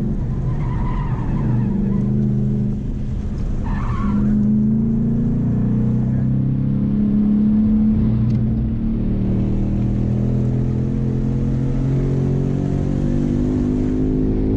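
2016 Mustang GT's 5.0-litre V8 engine on an autocross run, revs rising and falling as it accelerates and lifts, with brief tire squeal about a second in and again about four seconds in.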